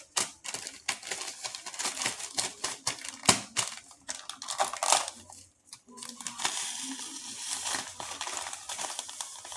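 A plastic bag of sugar crinkling and rustling as it is handled and torn open, with irregular clicks and knocks. About six seconds in, a steady hiss starts: granulated sugar pouring into the pot.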